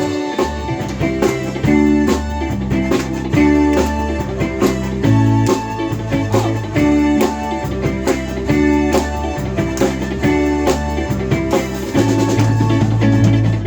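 A live band playing an up-tempo instrumental with a steady beat: guitar over a repeating bass line and drum kit.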